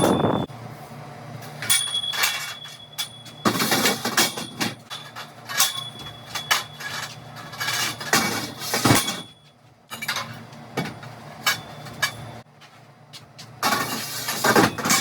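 Irregular knocks, clinks and rattles of hard objects being handled, with bursts of rustling and clattering at about four seconds, at about eight seconds and near the end.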